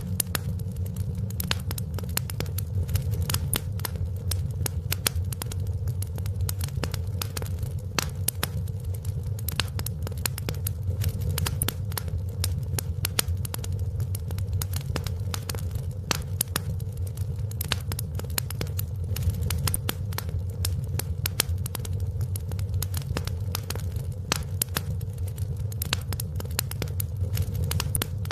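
Wood fire burning in a fireplace, crackling with many quick irregular pops and snaps over a steady low rumble of the flames.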